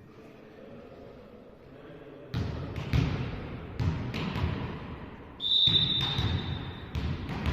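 A volleyball being struck again and again by hands: about six sharp, echoing hits that begin a couple of seconds in. A high, steady tone lasts over a second about midway through.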